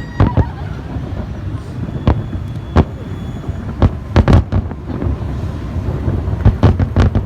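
Aerial fireworks bursting overhead: about a dozen sharp bangs at irregular spacing, bunched about four seconds in and again near the end, over a steady low rumble.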